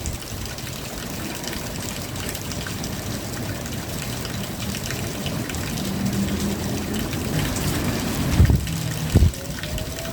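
Steady rain with water running and trickling. A faint low hum comes in about six seconds in, and there are two loud low thumps near the end.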